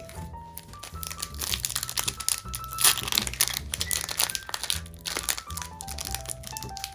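Crinkling and crackling of foil Pokémon booster-pack wrappers being handled and opened, with soft background music playing a stepping melody.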